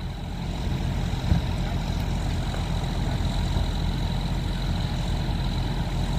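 Large engine idling steadily, a low rumble, with a faint steady high whine over it and a single brief knock about a second in.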